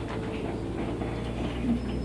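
Ride noise inside a moving city bus: a steady low hum with faint rattles and clicks from the cabin.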